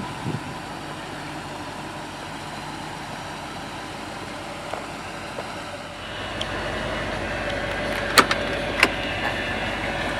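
1973 Chevrolet Corvette's V8 running, a steady noisy drone. About six seconds in it gets louder, with a steady tone added, and two sharp clicks come near the end.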